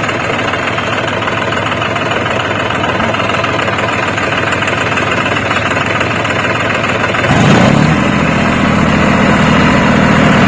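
Tractor diesel engines running steadily. About seven seconds in, a deeper, louder engine note comes in and holds.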